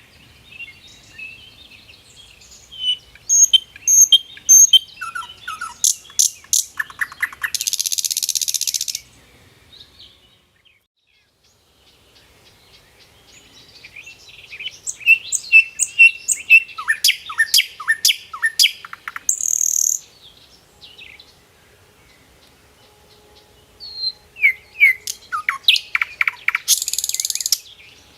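A songbird singing three phrases of chirps and quick falling notes, each phrase ending in a short harsh buzz, with brief pauses between them.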